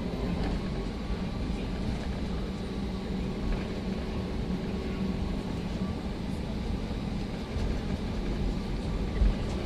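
Airbus A319 cabin noise while taxiing after landing: a steady low rumble of the engines at idle, with a constant hum.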